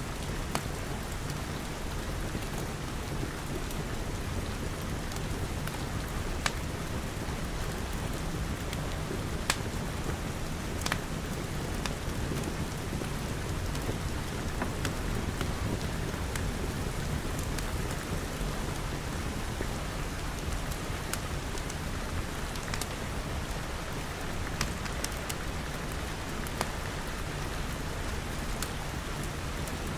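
Steady rain pattering on glass walls and roof, with occasional sharp little clicks scattered through it.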